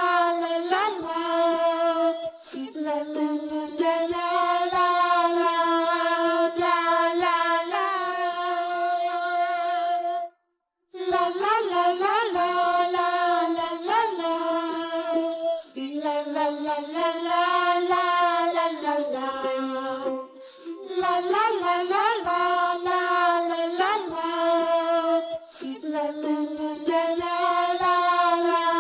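Background music of a high voice singing a wordless, la-la-style tune with long held notes. It drops out completely for about half a second, about ten seconds in.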